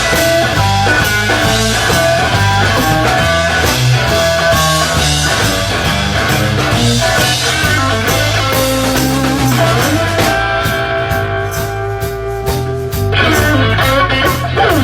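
Rock band playing an instrumental passage: electric guitar over bass and drums. About ten seconds in, the cymbals drop back and the guitar holds long notes, and the full band comes back in about three seconds later.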